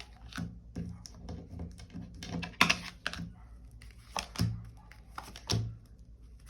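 Tarot cards being handled on a table: a run of irregular clicks and soft taps as cards are drawn and laid out, the loudest a few seconds in.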